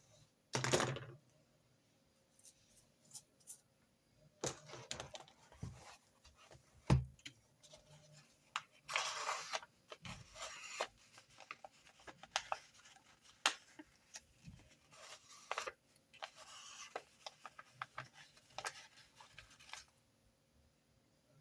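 Desk sounds of handwritten note-taking: paper rubbing and rustling, with scratches and small sharp taps, coming in irregular bursts of up to about a second.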